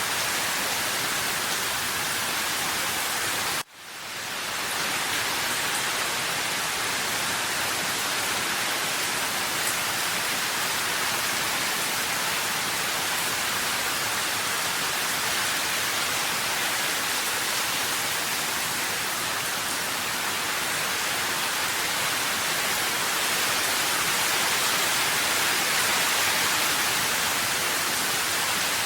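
Steady rain, an even dense hiss with no single drops standing out. About three and a half seconds in it cuts out for a moment and fades back in.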